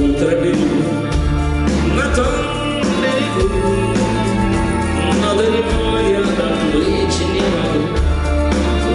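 Live rock band playing a song, with bass, keyboards and a melodic lead line over a steady beat.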